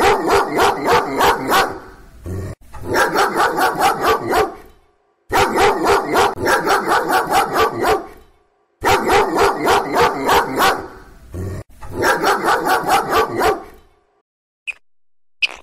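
Dachshund puppy barking at its own reflection in a mirror: rapid high yapping barks, about four or five a second, in five runs of about two seconds with short pauses between them, stopping shortly before the end.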